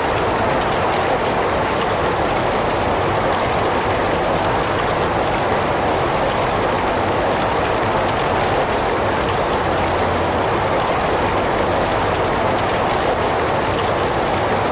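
Heavy rain falling, a steady, even noise with no breaks or changes.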